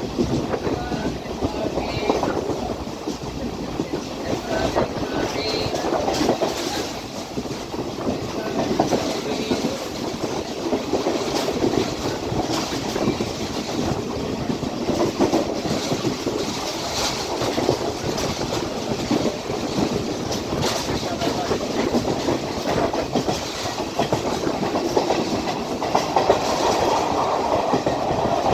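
Class S12 diesel multiple unit running at speed, heard from an open carriage window: a steady rumble of wheels on the rails with irregular clickety-clack over the rail joints.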